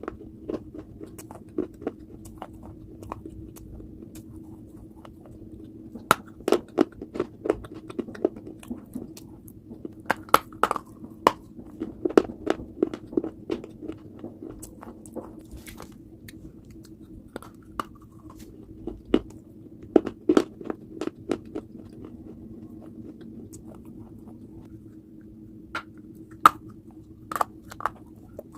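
Close-up biting and crunching of hard, brittle baked clay pieces, in bursts of sharp cracks separated by quieter pauses of chewing. A steady low hum runs underneath.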